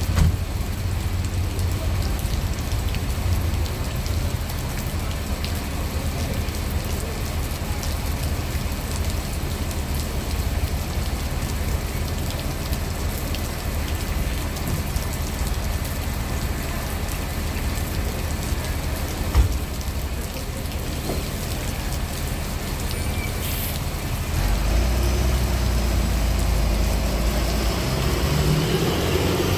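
Heavy rain pouring down, with a low vehicle-engine rumble underneath. There is a single short thump about 19 seconds in, and the low rumble grows louder about 24 seconds in.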